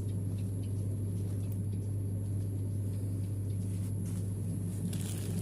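A steady low hum with a rough rumble underneath and faint light ticks. A brief scraping rustle comes near the end.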